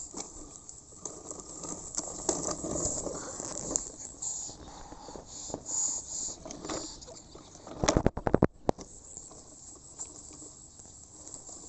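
Scratching and rubbing of a pen or marker on paper while drawing, with scattered small clicks and a quick run of sharp, loud taps about eight seconds in.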